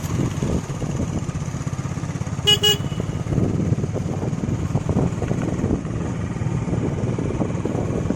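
Hero Glamour 125's single-cylinder engine running steadily as the motorcycle rides along, with a short horn toot about two and a half seconds in.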